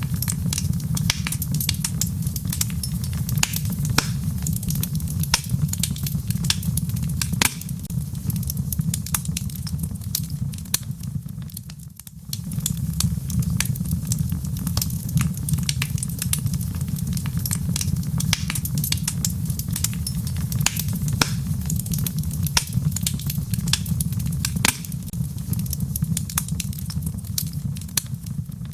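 Wood fire in a fireplace crackling, with many sharp pops and snaps over a low steady rumble of the flames. The sound dips briefly about twelve seconds in.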